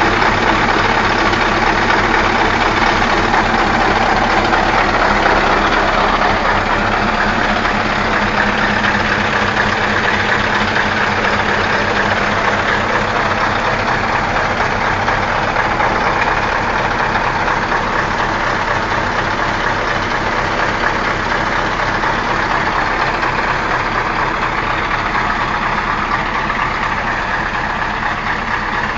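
Scania V8 diesel truck engine running steadily, growing slightly quieter toward the end.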